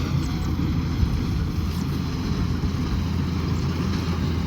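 Kubota combine harvester's diesel engine running steadily under working load, a constant low drone.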